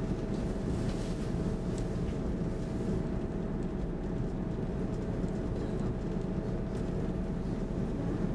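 Steady low hum and rumble inside an SL X10 electric commuter train standing at a platform, with a faint steady whine running through it.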